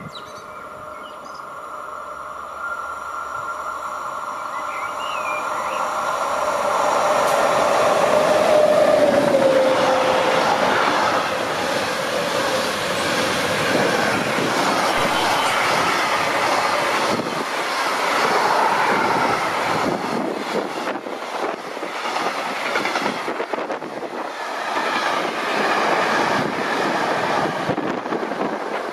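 A train passing at speed. The sound swells over the first nine seconds, and a steady tone falls in pitch as the front of the train goes by. The wagons then rush past with a continuous clatter of wheels on the rails.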